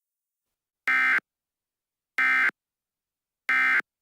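Three short bursts of Emergency Alert System (SAME) digital data tones, each about a third of a second long and about 1.3 s apart: the end-of-message code that closes a weather radio alert.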